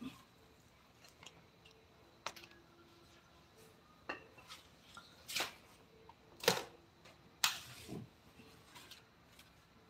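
Scattered light clicks and scrapes of hard objects being handled, about half a dozen over the stretch, the loudest near the middle and toward the end.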